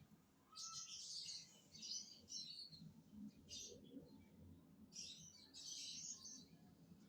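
Lovebirds chirping in faint, scratchy bursts of rapid high chirps, four or five bursts with short pauses between.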